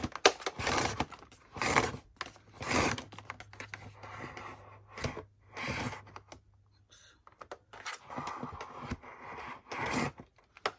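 Power cord being pulled out of a Hoover Elite Rewind Plus upright vacuum's retractable cord reel: a string of irregular scraping and clicking handling noises.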